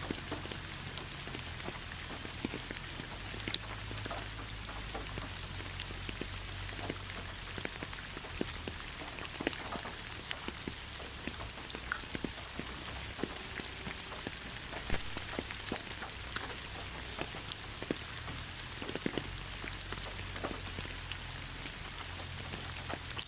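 Steady rain falling, with many separate drops ticking sharply on a surface.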